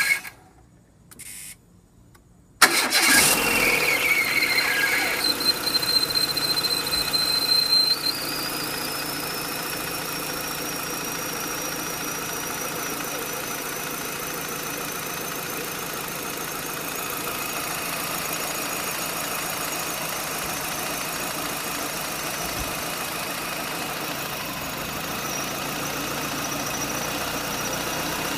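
Renault Clio engine starting about two and a half seconds in, then idling with a thin, high-pitched whine that slowly rises in pitch: the sign of a failing water pump.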